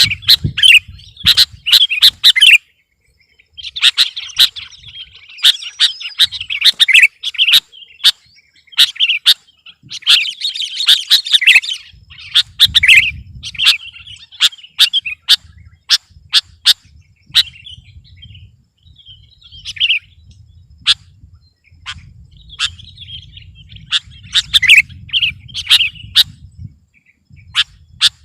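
Sooty-headed bulbul (kutilang) singing busily: loud, repeated chattering phrases of short notes mixed with sharp chips, broken by short pauses. A low rumble runs under the song in its second half.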